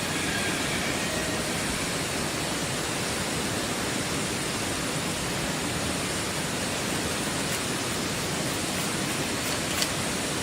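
A steady, even rushing hiss with no pitch or rhythm, and one faint click near the end.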